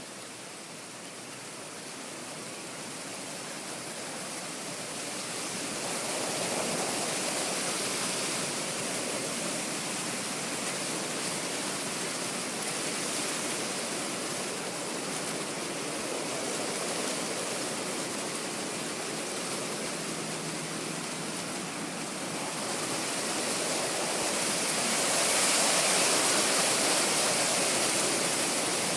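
Wind blowing through tree leaves: a steady rustling hiss that swells in gusts, rising about six seconds in and loudest near the end.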